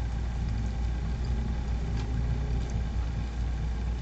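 A steady low background rumble, with a faint tick about two seconds in.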